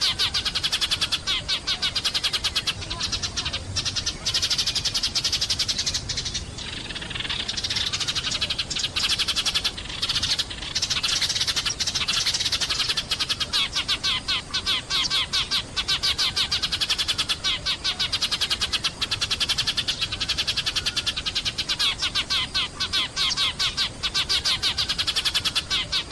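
Sparrows chirping and twittering rapidly and without pause, many calls overlapping as from a flock.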